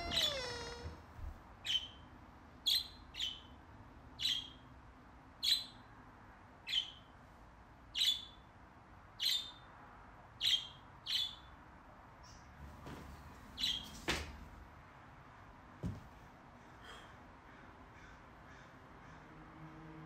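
Short, sharp bird squawks repeat about once a second, about a dozen of them, then fainter ones near the end. A wavering creak dies away in the first second, and a single low thud comes about sixteen seconds in.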